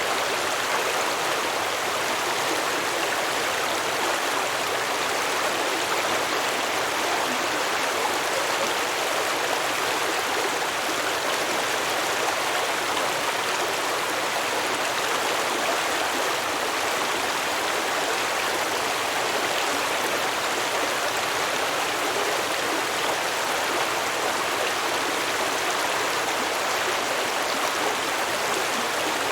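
Stream water running and babbling over rocks, a steady even rush with no breaks.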